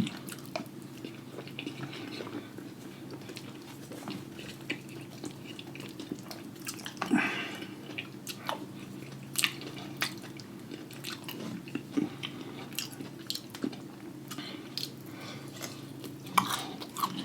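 Close-miked eating of a loaded lobster-tail seafood boil: chewing and mouth smacking, with scattered sharp clicks and taps of a spoon or utensils. A steady low hum sits underneath.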